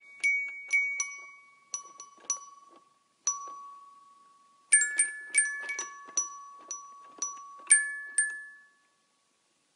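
A cat pawing a child's toy xylophone, plinking about fifteen irregular single notes at a few different pitches, each ringing briefly. The taps come faster after about four and a half seconds and stop about a second before the end.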